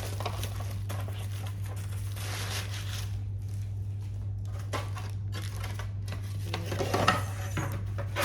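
Packaging and plastic parts being handled: scattered rustling, light clicks and knocks, with the loudest knock near the end, over a steady low hum.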